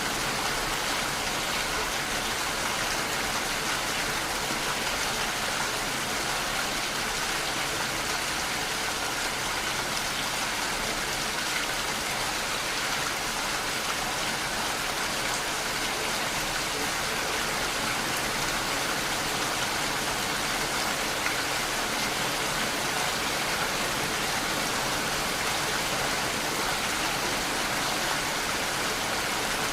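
Steady rain falling, an even hiss of many drops with faint scattered pattering.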